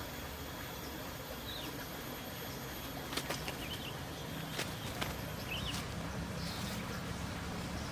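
Outdoor rural ambience with a steady low background, faint high bird chirps, and a few sharp clicks or flaps about three to five seconds in.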